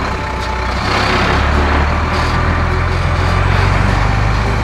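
Cartoon bulldozer sound effect: a heavy engine running with a steady low hum, under a loud gritty scraping as the blade pushes a bed of stones.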